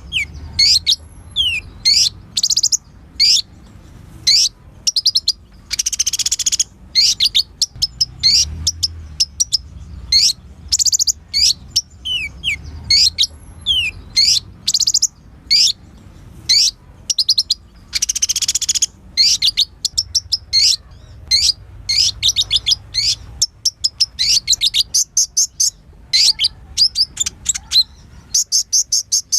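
Kolibri ninja sunbird singing, a fast run of high, sharp chips and short sweeping notes with no pauses. Twice, about six seconds in and again around eighteen seconds, the notes give way to a longer buzzy trill.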